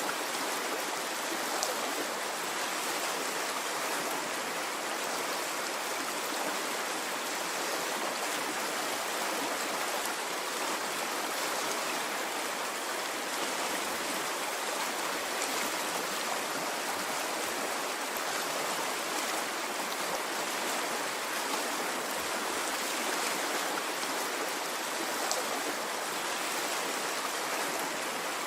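Water of a stream flowing steadily, an even rushing with no swells or breaks.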